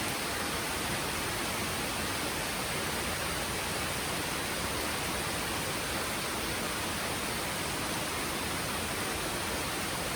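Steady rain falling, a dense, even hiss with no distinct drops or breaks.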